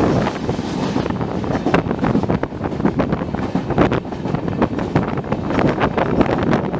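Passenger train running at speed, with heavy wind buffeting the microphone and frequent irregular sharp clatters over a steady rumble.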